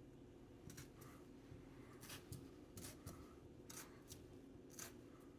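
A fork stabbing into raw new potatoes, to vent them so they don't burst in the microwave: faint, crisp clicks, mostly in quick pairs about once a second, over a low steady room hum.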